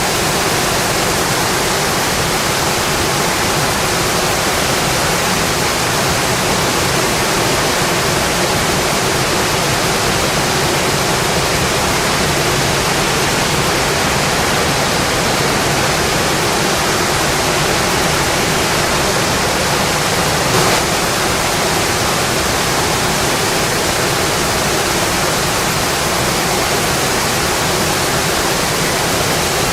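Steady rain falling, an even, unbroken hiss, with one faint tap about two-thirds of the way through.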